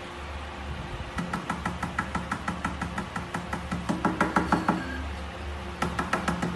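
A fast, even run of light taps or knocks, several a second, for about four seconds, then a second short run near the end, over a steady low hum.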